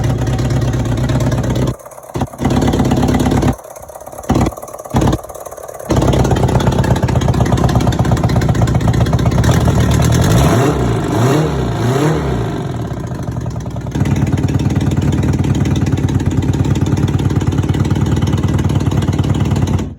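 Honda CBR750 Hurricane RC27's inline-four engine running on its first start after more than 15 years laid up. The sound drops away abruptly a few times in the first six seconds. Around the middle the engine is revved up and down a few times, then it settles back to a steady run.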